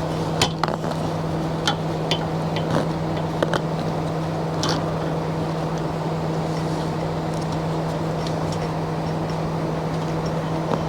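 A steady machine hum with a low tone, with about six light clicks and knocks in the first five seconds from hands and tools working on awning hardware.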